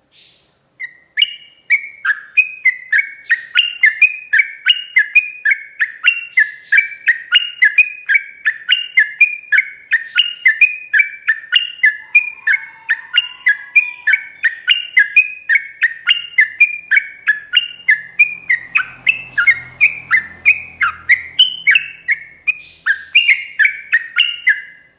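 Yellow-vented bulbul singing a long, unbroken run of rapid, clear slurred notes, the fast continuous song that bird keepers call ropel.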